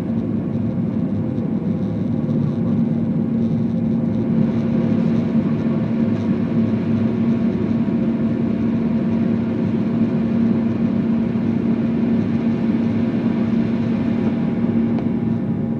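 Airliner's jet engines running steadily during takeoff: a constant hum under an even rush of noise that holds level throughout.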